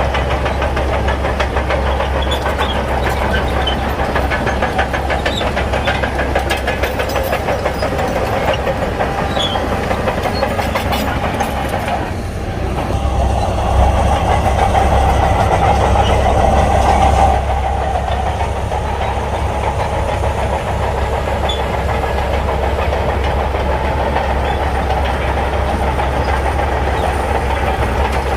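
Heavy diesel engine of a Shantui crawler bulldozer running under load, with fast metallic track clatter. Partway through, the engine sound dips briefly, then runs louder for a few seconds before settling back to a steady level.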